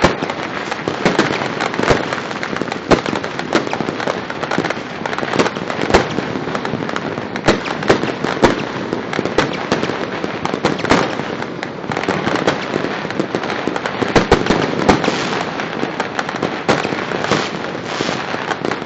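Dense, continuous fireworks and firecrackers going off across a city: a steady crackle of many overlapping bangs, with louder sharp reports every second or so.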